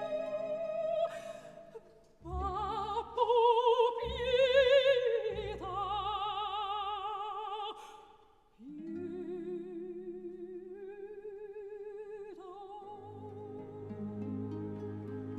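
Music: operatic singing, with long held notes and a wide vibrato, over a sustained low accompaniment. The music dips briefly about two-thirds of the way through.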